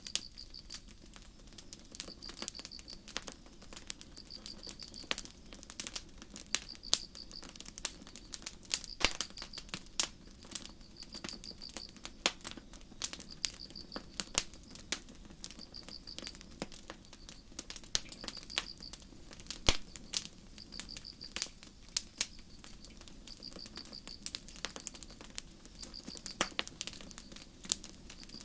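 Wood campfire crackling with frequent sharp pops and snaps, over crickets chirping in short pulsed trills about once every second or so.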